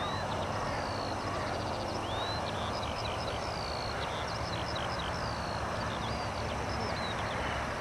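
Small birds singing in quick chirps, sweeping whistles and fast trills over a steady low hum and background noise.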